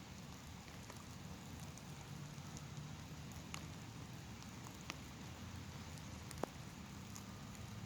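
Light rain sprinkling: a faint steady hiss with scattered drops ticking, the sharpest tick about six and a half seconds in, over a low distant rumble.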